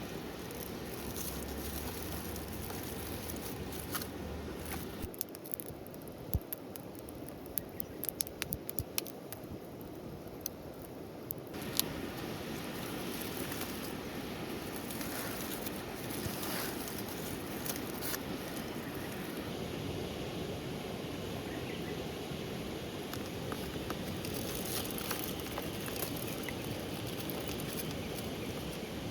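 Steady patter of rain. From about 5 to 12 seconds the hiss softens and a scatter of sharp clicks and ticks stands out.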